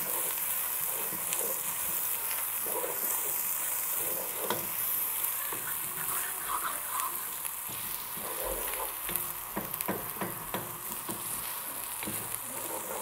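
Chopped onions with crushed ginger and garlic sizzling as they fry in a nonstick pot, stirred with a wooden spoon that scrapes and knocks against the pan at irregular moments over a steady hiss.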